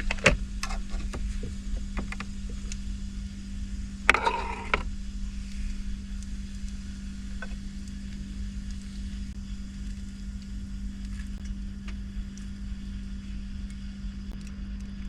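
Cookware being handled: a few light clicks in the first three seconds and a short clatter about four seconds in, over a steady low hum.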